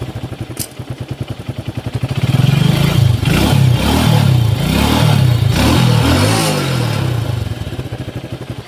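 Motorcycle engine idling, then revved up and down several times with the throttle before dropping back to idle, its timing chain tensioner just refitted and adjusted.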